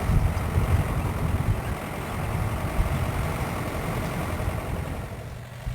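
A vehicle driving on a rough track, with a steady low engine and road rumble that eases off a little near the end.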